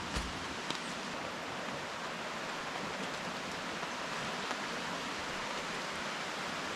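Steady rain falling in rainforest, an even hiss, with a few faint ticks near the start.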